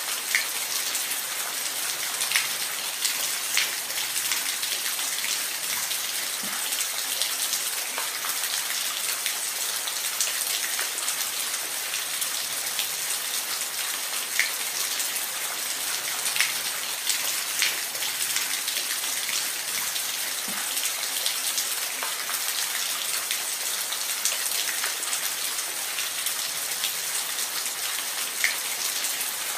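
Steady rain falling in a forest: an even hiss with scattered louder drop ticks.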